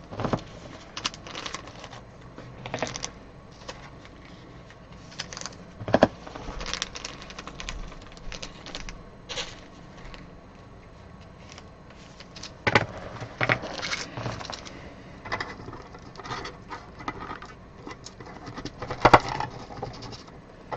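Trading cards and plastic card holders being handled and sorted: irregular small clicks, taps and slides, with a few sharper knocks about six, thirteen and nineteen seconds in.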